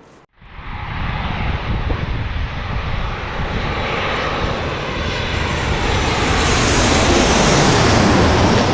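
Jet airliner's engines passing close on landing approach: a loud, steady rushing roar that cuts in abruptly just after the start and builds to its loudest near the end, growing brighter as the jet nears.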